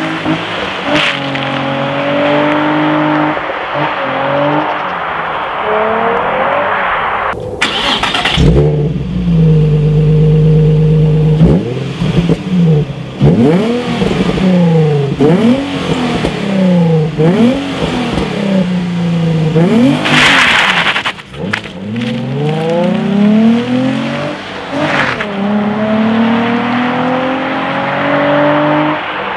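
Nissan 350Z Roadster's 3.5-litre V6 and exhaust being revved, the pitch sweeping up and down in quick repeated blips. Early on the revs are held steady for a few seconds. Two short bursts of hiss cut in, one about a quarter of the way in and one about two-thirds of the way in.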